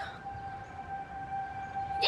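Outdoor civil-defense tornado warning siren sounding one steady held tone, heard from inside a house.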